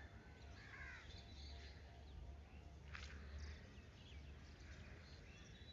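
Faint bird calls and chirps over a low steady rumble, with one brief click about three seconds in.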